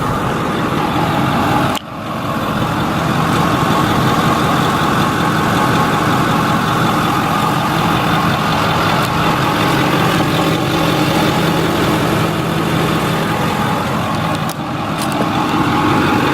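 Ford 6.4L Power Stroke V8 diesel of a 2008 F-350 Super Duty idling steadily, with a brief break about two seconds in.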